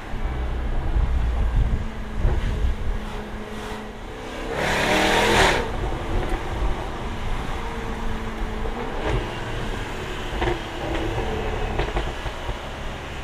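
Jaguar F-Type V8 R's supercharged 5.0-litre V8 running under way, with one much louder surge of about a second, about four and a half seconds in. A few short, sharp pops follow later on.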